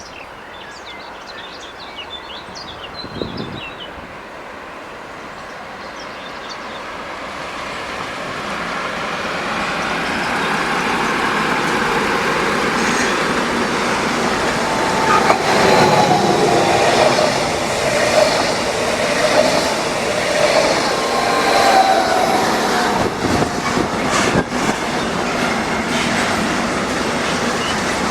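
Freight train hauled by a Siemens Vectron electric locomotive (BR 193) approaching and passing, its rumble growing louder over the first ten seconds or so. Then the wheels squeal and clack over the rail joints and points as it runs into the siding.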